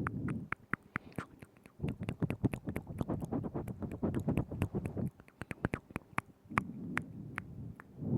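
Close-up ASMR mouth sounds: a rapid string of wet tongue and lip clicks and smacks right at the microphone, with low muffled stretches between them.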